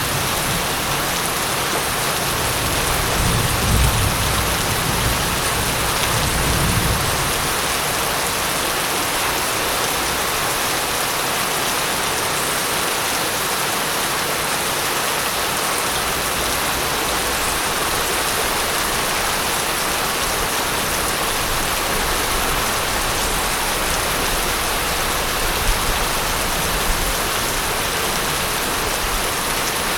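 Steady heavy rain falling on surfaces, with a low rumble of distant thunder for a few seconds near the start.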